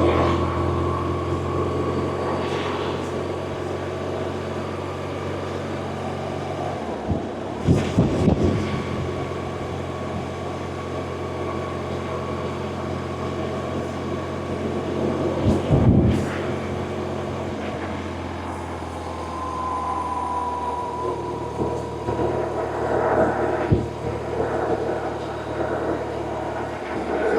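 BMW R1100RT's air/oil-cooled boxer-twin engine running at a steady cruise, heard on board with wind rush. The steady drone breaks off briefly with loud gusts about eight seconds in and again around sixteen seconds.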